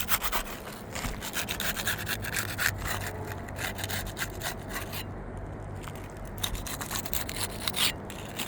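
A putty knife scraping under old three-tab asphalt shingles in rapid back-and-forth strokes, working the tabs loose from their weakened sealant strips, with a short pause a little past halfway.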